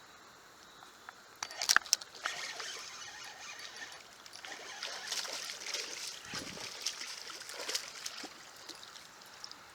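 Water splashing and sloshing as a hooked bass thrashes at the surface while it is reeled in. The splashing starts about a second and a half in, is sharpest near two seconds, then goes on in uneven bursts.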